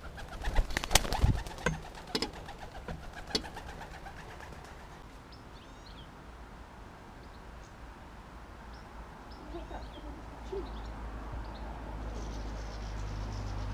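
White doves at a feeder: a quick flurry of wing flaps in the first few seconds, then small birds chirping with soft dove cooing. A low rumble rises near the end.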